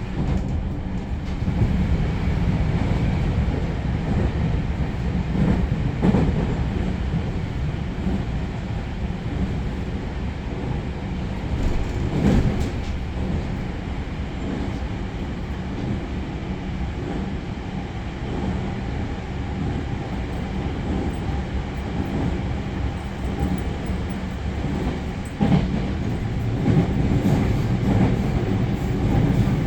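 Cabin running noise of a JR Central 315 series electric train: a steady low rumble of wheels on rail, with a few short, louder knocks from the track, about 6, 12 and 25 seconds in.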